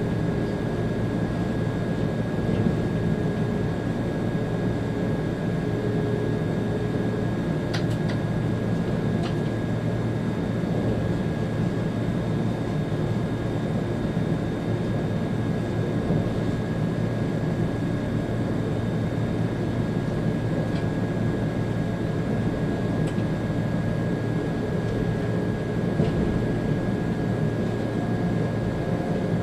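Steady running noise inside the cab of an ÖBB Railjet's Taurus locomotive in motion: a deep rumble from the wheels and running gear, with a thin, steady high whine over it. There are a few short clicks about eight seconds in.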